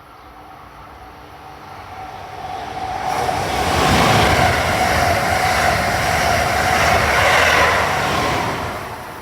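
Train passing the trackside at speed: a rushing rail noise with a steady whine that builds over a couple of seconds, stays loud for about four seconds, then fades away.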